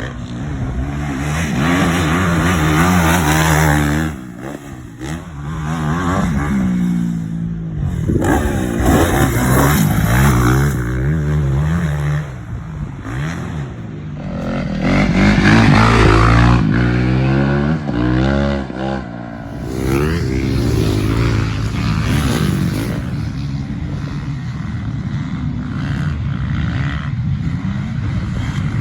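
Motocross dirt bike engine revving up and down as the rider works the throttle and gears, easing off briefly about four seconds in and then pulling hard again several times.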